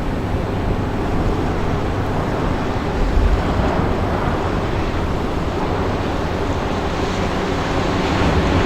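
Steady low rumble with wind on the microphone, and a brief louder low thump about three seconds in.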